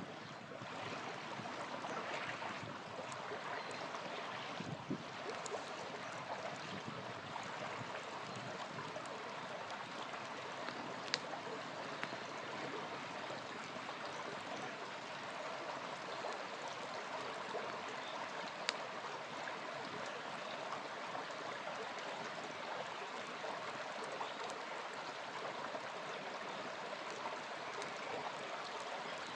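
Small river flowing steadily, with a few sharp pops of a campfire; two stand out, about 11 and 19 seconds in.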